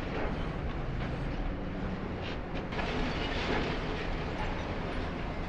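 High-reach demolition excavator running steadily while its jaws break concrete floor slabs; from about two and a half seconds in, crunching concrete and clattering rubble falling.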